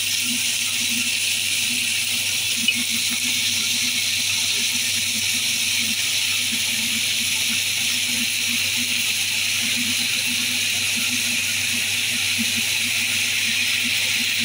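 Sliced onions and minced mutton frying in oil in a pressure cooker: a steady sizzling hiss, with a single short tick a few seconds in.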